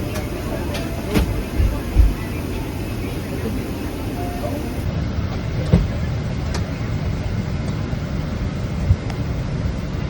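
Steady low rumble inside a moving vehicle, with a few short knocks and bumps.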